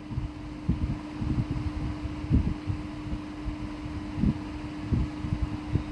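A steady fan-like hum, with scattered low knocks and clunks from engine parts being handled on the bench.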